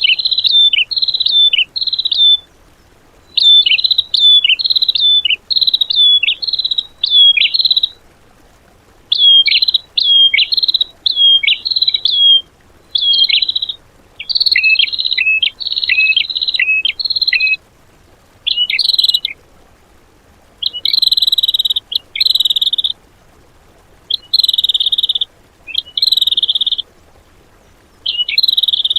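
A songbird singing a loud, rapid 'tembakan' song: sharp whistled notes that drop in pitch, in clusters of about half a second. The clusters come in runs separated by short pauses.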